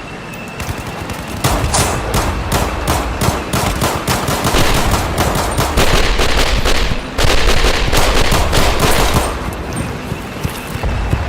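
Battle gunfire: rapid automatic bursts of machine-gun fire with scattered single shots. It is sparse at first, becomes a dense, sustained volley from about a second and a half in, and thins out again near the end.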